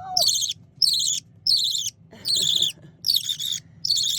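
Baby budgerigar chick about two weeks old giving a steady series of short, raspy begging calls, roughly one every two-thirds of a second. These are fussy food-begging calls from a chick that already has a full crop.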